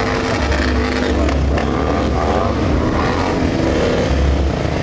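Motorcycle engine running loudly, a deep low rumble with a pitch that wavers up and down.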